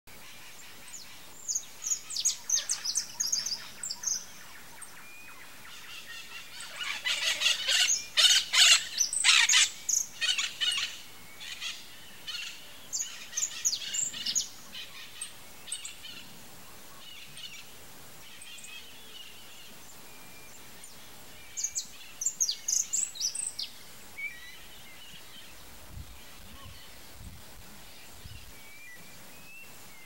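Birds giving bursts of rapid, sharp chattering calls in four bouts, the loudest about seven to ten seconds in, with quieter stretches between.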